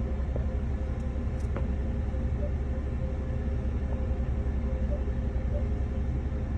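Car engine idling with a steady low rumble, heard from inside the cabin, while a few faint short beeps sound from the car wash pay-kiosk keypad as the code is entered again.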